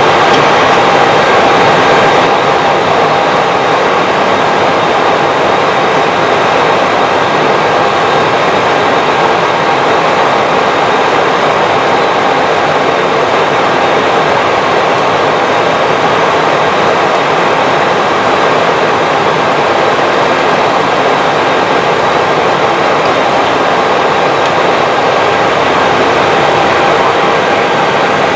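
Airbus A320 flight-deck noise: a steady rush of airflow and engine sound with a few faint steady tones, unchanging throughout.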